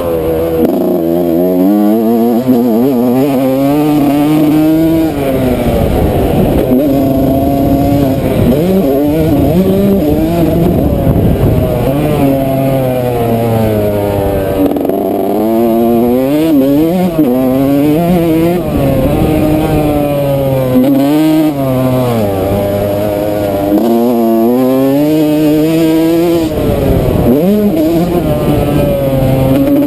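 Yamaha YZ125 two-stroke single-cylinder dirt bike engine revving hard around a motocross track. The pitch climbs and falls again and again as the throttle opens and closes and the gears change.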